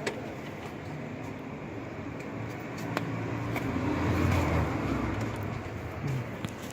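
A road vehicle passing by: a low engine rumble that swells to a peak around the middle and fades away, over steady traffic noise, with a few light clicks.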